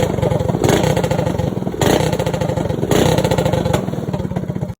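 Predator small engine with an aftermarket stage 3 racing exhaust running loud, with a quick, even firing beat, rising louder three times as it is revved. The sound cuts off suddenly near the end.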